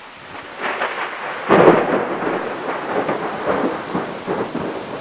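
Thunderstorm rain arriving, with a sudden loud surge about one and a half seconds in, then further irregular surges that swell and fade.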